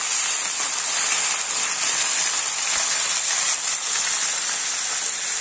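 Chopped spinach, peas and tomato frying in hot oil in a kadhai, a steady sizzling hiss as the wet greens hit the oil.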